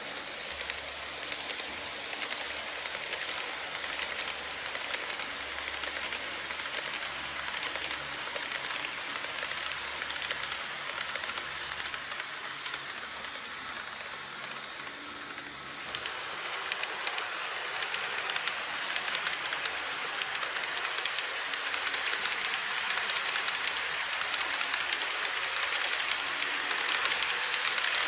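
Model train running on its track: a dense, fast clicking and rattling of small wheels on rail, with a light hiss. It grows louder from about halfway through.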